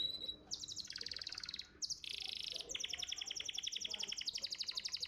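Domestic canary singing: long, fast trills of rapidly repeated high notes. A short buzzy, rasping phrase about two seconds in is followed by further rapid trills.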